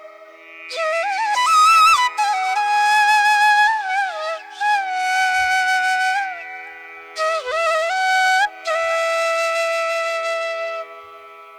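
Background music: a flute playing a slow melody with bending, ornamented notes and long held tones over a steady drone.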